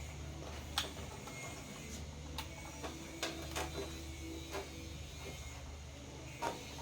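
Scattered small clicks and taps of repair work on a TV set, about a dozen irregular ticks, over a steady low electrical hum.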